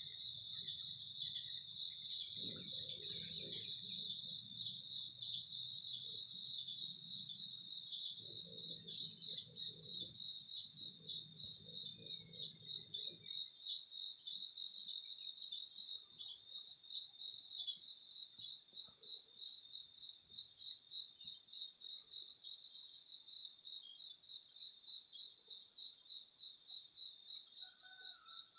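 A steady, pulsing insect trill, like crickets, runs throughout. Many short, high bird chirps are scattered over it. A low hum is heard until about halfway through.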